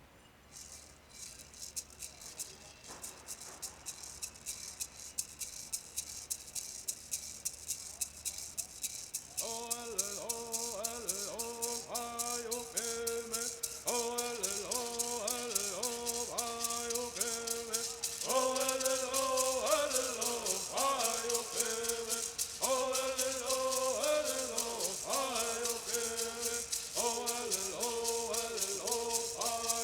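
Native American bird singing: gourd rattles shaken in a steady, quick rhythm that grows louder. About nine seconds in, singers join in unison, and the song carries on over the rattles.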